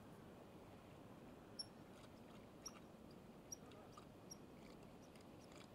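Near silence: faint outdoor background with a few short, high chirps from a small bird, spaced about a second apart.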